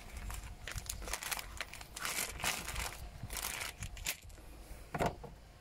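Faint irregular crinkling and rustling as parts are handled, with a sharper knock near the end.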